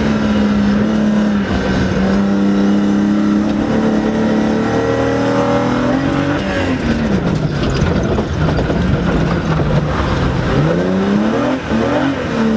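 BMW E30 rally car's engine heard from inside the cabin, held at steady high revs for about six seconds, then dropping off and rising and falling at lower revs before climbing back up near the end.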